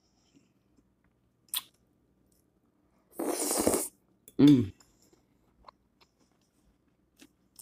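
A person eating barbecued steak strips close to the microphone: small mouth clicks, a loud burst of chewing noise about three seconds in, then a short voiced sound falling in pitch.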